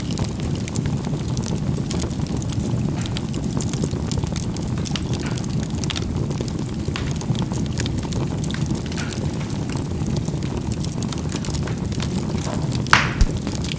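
Charcoal burning in a fireplace: a steady low rumble of the fire with scattered small crackles, and one loud pop near the end.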